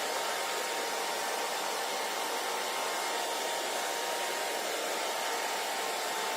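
Handheld hair dryer running continuously at steady speed: an even blowing hiss with a faint steady motor whine.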